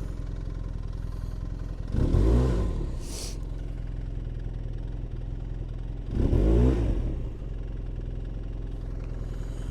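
Snowmobile engine running at idle and revved briefly twice, about two seconds in and again about six seconds in, as the rider tries to back up while the reverse will not engage.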